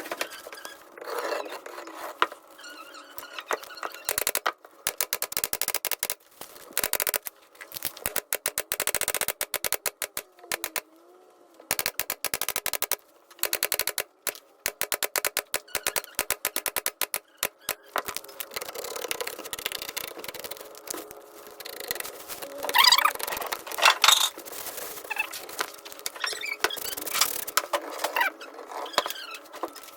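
Rapid clicking and tapping from hand work on a woven wicker chair seat, sped up, coming in dense runs with short breaks.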